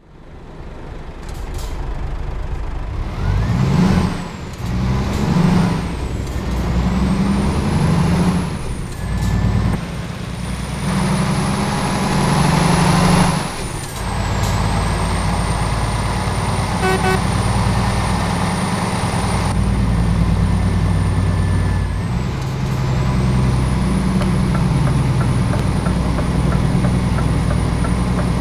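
Scania G-series heavy truck's diesel engine working under a heavy low-loader load, its pitch rising and dropping, with a high whine that dips and climbs several times. Loud bursts of air hiss come about four seconds in and again around thirteen seconds.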